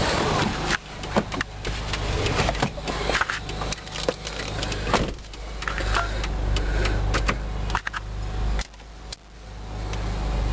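Steady low rumble under a scatter of clicks and knocks as someone handles things in and around a 2003 Saturn VUE's cabin.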